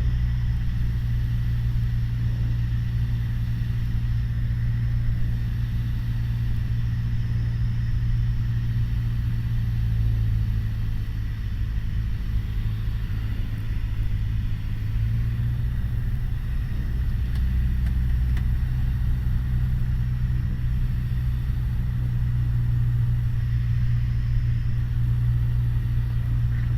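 Piper Warrior's four-cylinder Lycoming engine and propeller droning steadily in flight, heard inside the cabin as a low, even hum.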